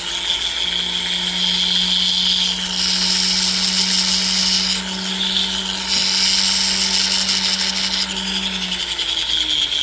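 Rotary tool spinning a medium-grade rubber abrasive wheel against a necklace link, smoothing down a welded joint: a steady motor hum under a high grinding hiss that shifts up and down in pitch a few times as the wheel is pressed and eased off.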